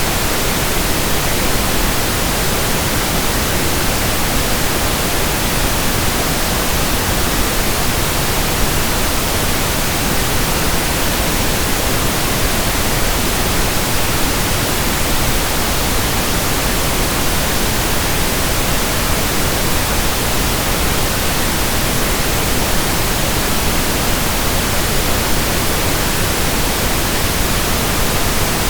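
Steady, unbroken pink noise, an even hiss across all pitches with no changes or events.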